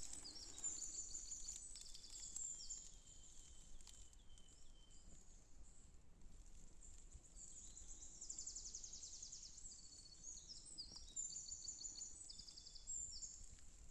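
Faint songbirds singing: quick high trills and short repeated chirping phrases over an otherwise quiet forest.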